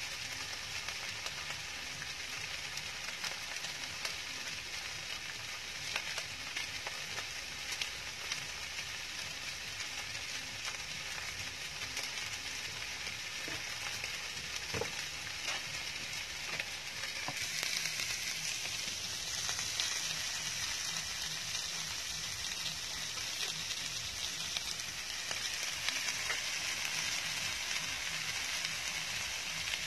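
Chicken pieces, kimchi and rice sizzling on a hot round grill pan over a portable gas stove: a steady frying hiss that grows louder a little past halfway, with a few light clicks.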